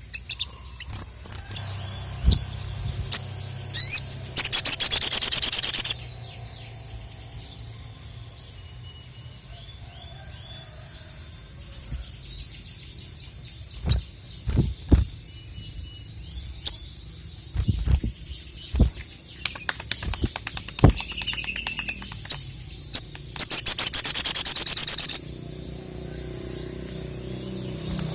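A sogon (little spiderhunter) calling: two loud, very fast rattling trills of a second and a half or so each, one about four seconds in and one near the end, with scattered sharp chips in between.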